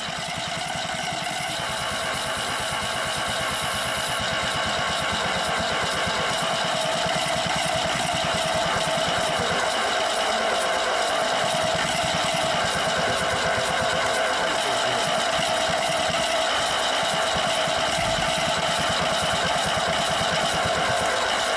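A classic Lada's four-cylinder engine, fitted with polyurethane pistons, cranked on the starter for about twenty seconds at a fast, even beat without catching; it cuts off at the end. It turns over with little resistance, the sign that the pistons have lost compression.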